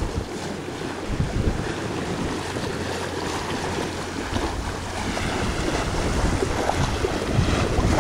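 Wind buffeting the microphone over the rush of water along the hull of a Colgate 26 sailboat under sail, a steady noisy wash that swells and eases.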